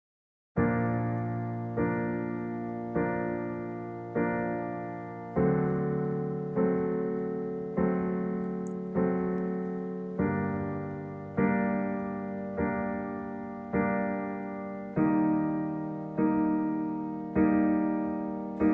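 Piano song intro: sustained block chords struck about once every 1.2 seconds, each fading before the next, with the harmony changing every four chords. It starts about half a second in.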